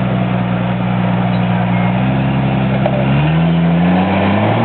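Lifted Jeep Cherokee's engine working under load as its front tyre pushes against a boulder. It holds a steady note for about three seconds, then its pitch climbs as it is given more throttle.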